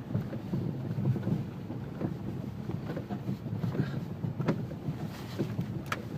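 Car driving slowly along a snow-covered street, heard from inside the cabin: a low, steady rumble of engine and tyres, with a couple of sharp clicks or knocks near the end.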